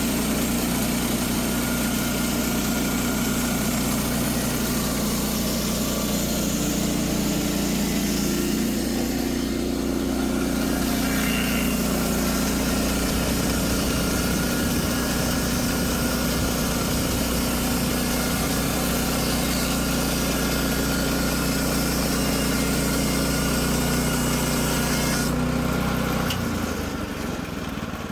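Gas engine of a portable bandsaw sawmill running steadily under load as the blade cuts through a log, its note shifting slightly a few times. Near the end the engine note drops away and the sound falls off.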